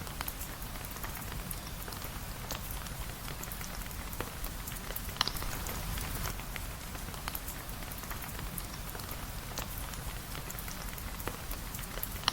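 Steady rain falling, with many scattered sharp drip-like clicks and pops through it, the strongest about five seconds in.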